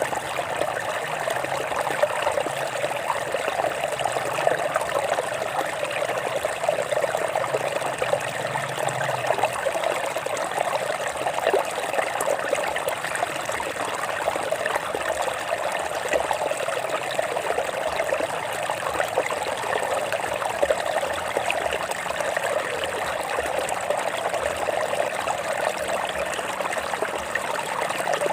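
Stream water flowing and trickling over rocks, a steady babbling rush with small splashes.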